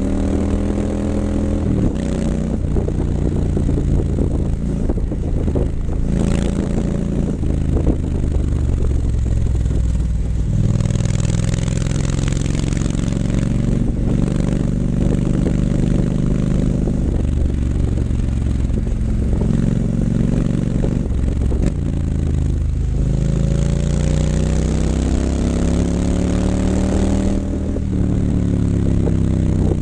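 2019 Triumph Scrambler 900's parallel-twin engine running through an H-pipe and Vance & Hines mufflers while riding. The exhaust note holds steady for stretches, then steps and sweeps up and down several times as the revs rise and fall.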